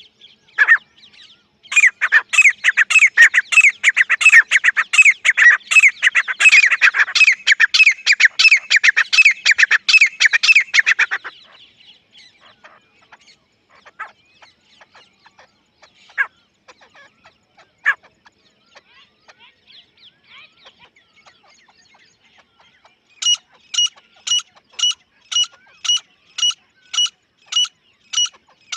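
Grey francolin (Dakhni teetar) calling: a loud, fast, dense run of repeated calls for several seconds, then scattered single calls. Near the end, an evenly spaced series of clear, high notes about twice a second.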